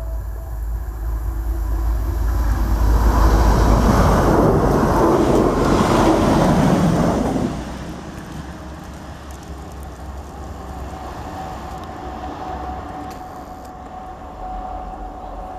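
A First TransPennine Express Class 185 diesel multiple unit passes close by. Its engine and wheel noise swell to a peak and drop away sharply about halfway through. A fainter, steady engine hum with a single held tone follows from a Class 185 further off along the line.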